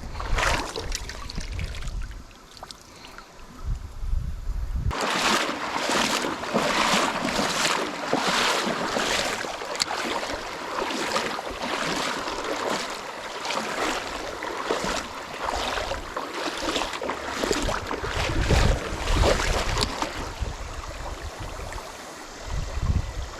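Water splashing and rushing around a kayak on a small river, a run of short splashes from about five seconds in until near the end. Wind gusts on the microphone can be heard at the start and again near the end.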